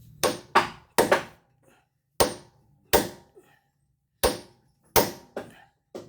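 A tool striking wood again and again: about ten sharp knocks at uneven spacing, some in quick pairs, each dying away quickly.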